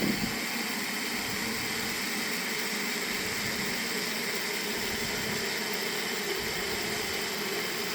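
Aerosol can of engine degreaser spraying in one long continuous blast, a steady hiss.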